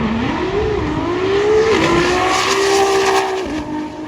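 Drag race car accelerating hard down the strip, its engine note climbing and dropping back at each gear change, then fading toward the end as it pulls away.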